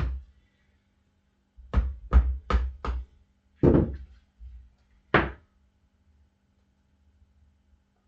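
About seven mallet strikes on the tire: one, then a quick run of four, then two more spaced out. They are knocking the tight tire bead over the rim while the tire is mounted.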